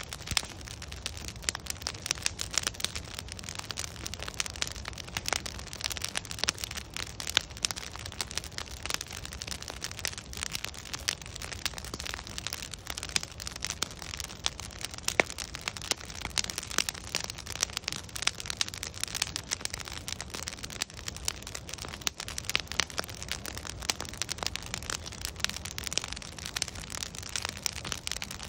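Wood bonfire burning, the logs crackling and popping in quick, irregular snaps over a low steady rumble of flame.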